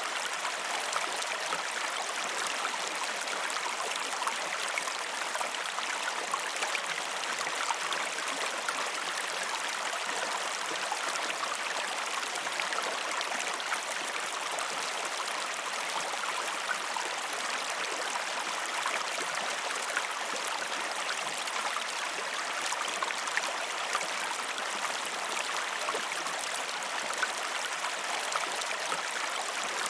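River and waterfall water flowing: a steady, unbroken rush with constant fine splashing.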